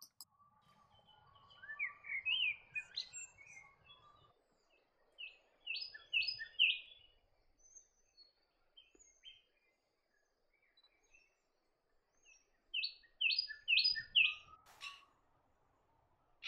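Common blackbird singing: three phrases of quick, sweeping notes with quieter notes between them, and a single sharp click near the end.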